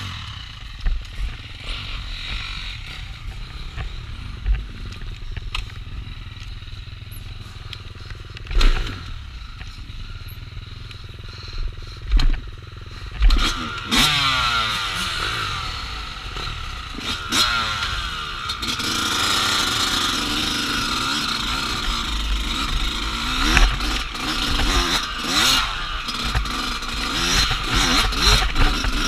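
Dirt bike engine on an enduro trail ride, running quietly with knocks from the bike at first. From about halfway in it revs up and down through the gears and gets louder from about two-thirds in.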